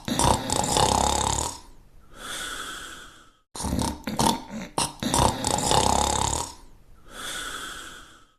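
Cartoon snoring sound effect, repeating in cycles: a long rattling snore, then a softer whistling breath out. The pattern comes twice, about four seconds apart.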